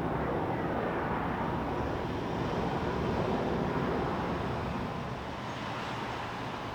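Jet airliner engine noise: a steady rush that eases off slightly after about five seconds.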